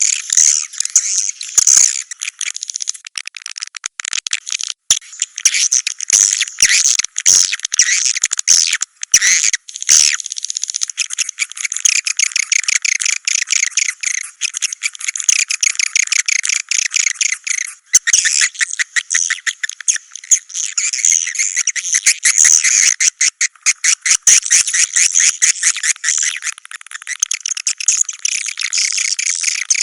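Swiftlets (burung walet) chattering and chirping continuously in dense, rapid trills with nothing below the high register: a swiftlet-house lure call recording.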